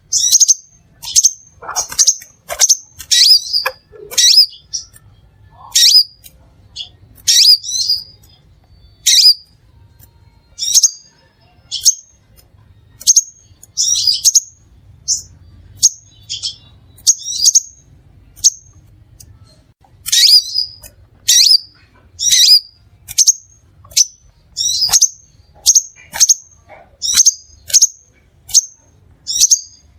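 Crimson sunbird calling: a steady run of short, sharp, high-pitched chips, about one or two a second, with brief pauses between groups.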